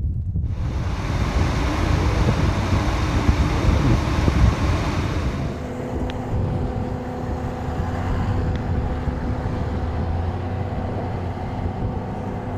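Wind buffeting the microphone over vehicle noise. A loud hiss fades out about five seconds in, leaving a steady engine hum under the rumble.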